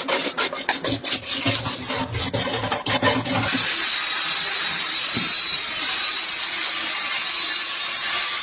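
Quick repeated scraping strokes, about four a second, that stop after about three and a half seconds and give way to a steady hiss.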